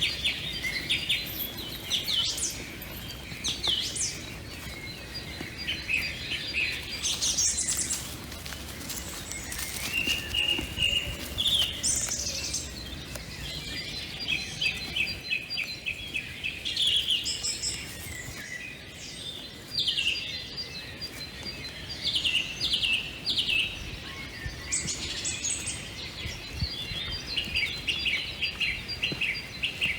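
Several small birds singing, with repeated high chirps and quick trills throughout.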